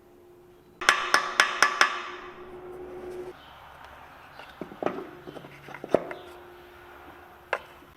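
Five quick metal taps, about four a second, each ringing briefly, then a scatter of lighter knocks and tool clatter, and one more sharp knock near the end.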